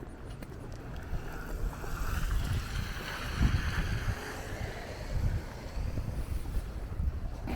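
Wind buffeting the microphone with a steady low rumble, over footsteps on a cleared, snowy sidewalk; a hiss swells and fades in the middle, about two to five seconds in.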